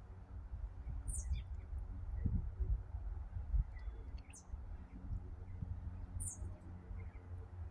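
A small songbird gives three short, high, falling chirps a few seconds apart, over a continuous low rumble.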